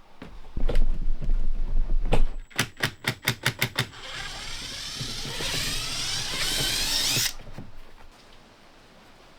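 Tool work in a boat's cabin: a few low knocks, then a run of about seven quick, evenly spaced clicks, then about three seconds of a harsh whir that cuts off suddenly.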